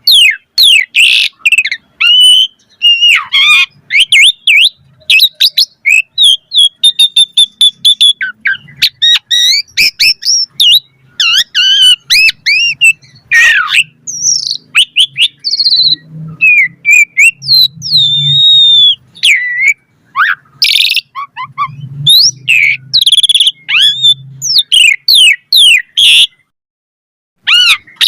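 Asian pied starling (jalak suren) singing a fast, varied song of whistles, gliding notes, chirps and rasping notes, with a silent pause of about a second and a half near the end.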